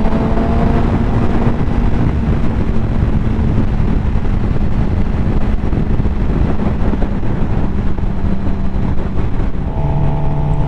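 Suzuki GSX-R750's inline-four engine running at a steady cruise, with wind rushing over the helmet microphone. The engine note drops slightly near the end.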